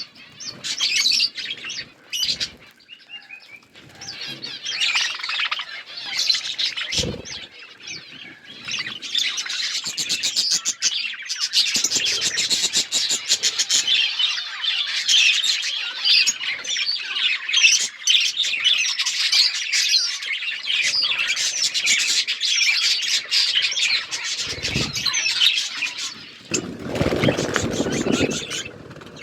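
A flock of budgerigars chirping and chattering, with many high calls overlapping into a dense, continuous twitter. There are a couple of dull low thumps, and a lower fluttering noise near the end.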